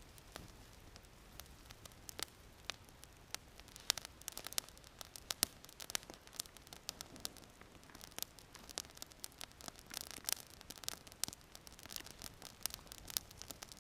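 Small campfire crackling with irregular sharp pops, the pops coming thicker after about four seconds.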